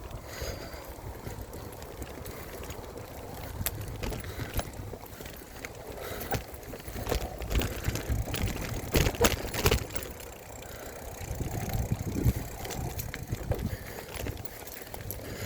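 Mountain bike ridden over a dirt trail: a steady low rumble with scattered knocks and rattles, and a cluster of louder knocks about nine seconds in.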